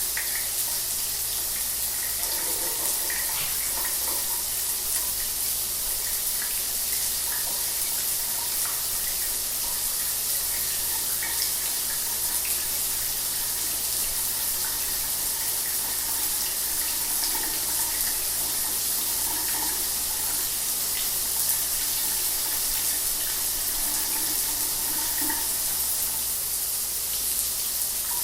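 Shower water running steadily, an even hiss of spray with small splashes and a faint low hum underneath.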